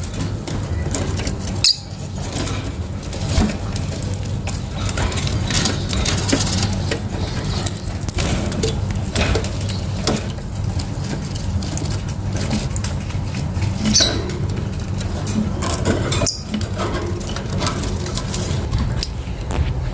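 Lovebirds moving about a cage, giving scattered clicks, scratches and brief high chirps over a steady low hum.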